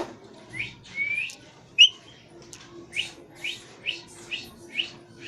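Pet parrot giving a string of short rising chirps, about two a second, with one sharper, louder call near two seconds in.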